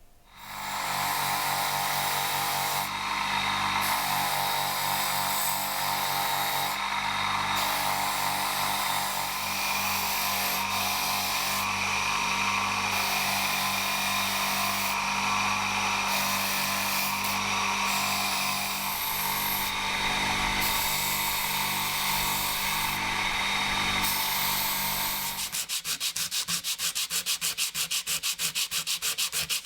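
Electric sanding tool running with abrasive grinding against a workpiece, the contact easing off briefly several times. Near the end it changes to a fast, even, rhythmic rasping.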